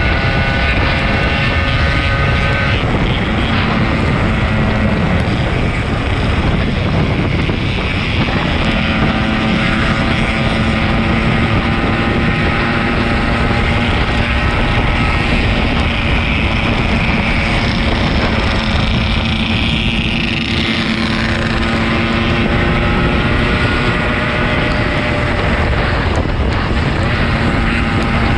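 Yamaha RX-King 135's single-cylinder two-stroke engine running under way, its note holding steady for stretches and changing pitch a few times, with heavy wind buffeting the microphone.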